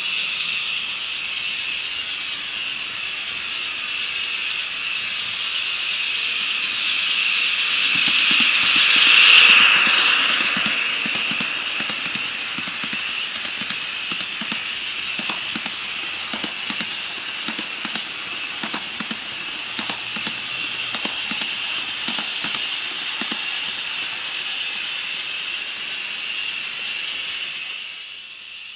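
HO-scale model EF210 electric locomotive with an ESU LokSound sound decoder running on the track, its hissing, whirring sound swelling to a peak about a third of the way in as it passes close, then easing off. Many sharp clicks follow through the second half.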